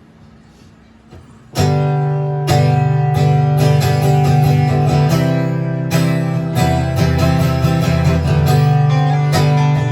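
Acoustic guitar strumming kicks in abruptly about a second and a half in, opening a song, with chords ringing on steadily after a short quiet lead-in.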